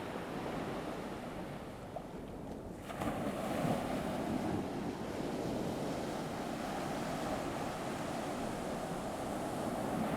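Ocean surf sound effect: waves washing on a shore as a steady rushing noise that swells louder about three seconds in as a wave comes in.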